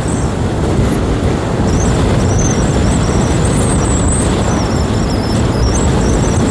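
A 125cc learner motorbike being ridden at speed: steady wind rush and engine noise, with a thin, high, wavering whistle over the top.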